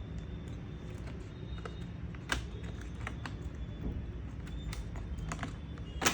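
Scattered light plastic clicks and taps as the MSI GP73 Leopard laptop's stuck plastic case is pried and worked loose, with one sharper click about two seconds in and another near the end, over a low steady hum.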